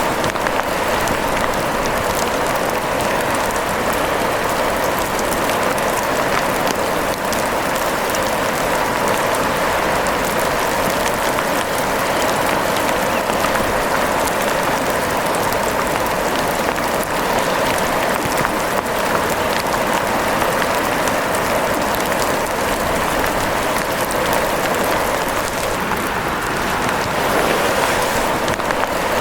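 Steady heavy rain: an even hiss with a dense patter of drops.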